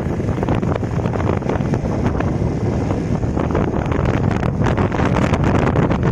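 Wind buffeting the microphone: a loud, steady rumble broken by ragged, crackling gusts.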